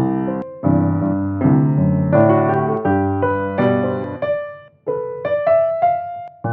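Solo piano playing chords with a melody line on top, each note struck and left to fade.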